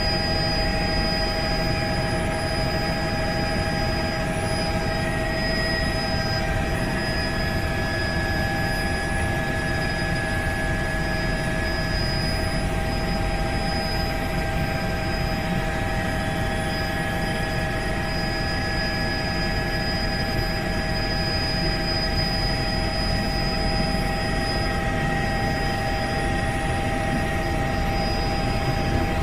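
Helicopter in steady flight: a constant engine whine, with several steady tones over a low rotor rumble.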